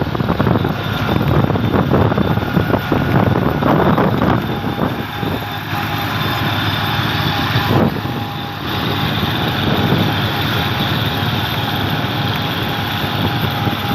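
Massey Ferguson 135 tractor engine running steadily.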